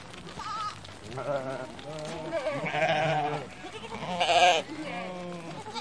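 Several sheep bleating, one wavering call after another, some overlapping, with the loudest bleat a little past four seconds in.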